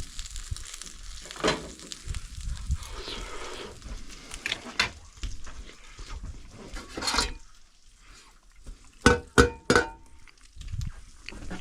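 Fish frying in a pan while a utensil scrapes and taps against it, with a quick run of sharp metal clinks about nine seconds in.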